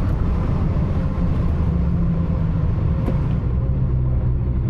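Toyota Supra MK4's big-turbo 2JZ-GTE straight-six running while the car cruises, heard from inside the cabin as a steady low drone with road noise. The engine note drops a little about three and a half seconds in.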